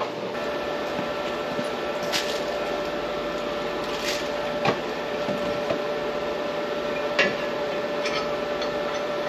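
Packing-line machinery running steadily with a constant hum, a second machine note joining just after the start, and a few sharp clicks and knocks.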